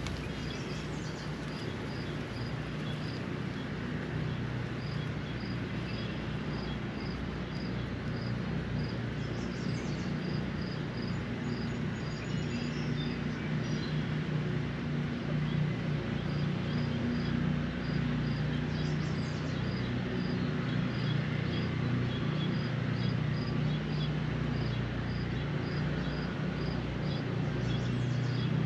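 Steady rain falling, with a high chirp repeating about twice a second, a few short bird calls, and a low steady hum underneath.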